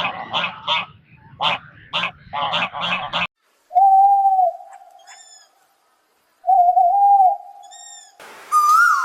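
Bird calls from separate recordings in sequence: a fast run of rough, repeated calls that stops abruptly, then two low, steady hoots a few seconds apart, each with an echo, and near the end a higher whistled call begins.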